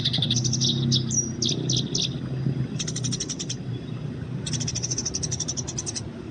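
Eurasian tree sparrows chirping in fast chattering runs of quick repeated high chirps, three bursts with short gaps between, over a low steady hum.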